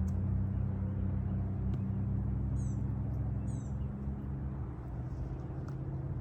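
A steady low hum, with two short high chirps from a bird a little before the middle.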